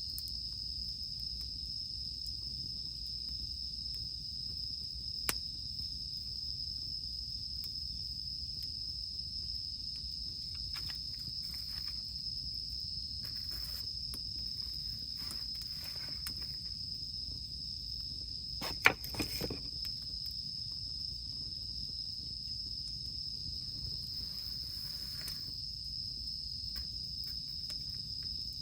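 Steady, high-pitched insect chorus holding one constant tone, over a low background hiss, with a campfire giving a sharp pop about five seconds in and a louder crackle of pops about nineteen seconds in.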